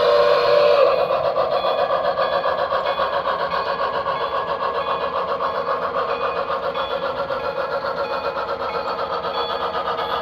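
Model steam locomotive's sound system: a whistle blast that ends about a second in, then steady fast chuffing with a high ringing tone repeating at a regular beat.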